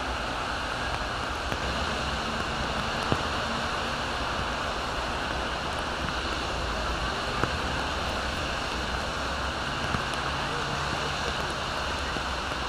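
Steady rain and traffic on wet streets, an even hiss with a low rumble underneath, broken by three brief sharp ticks.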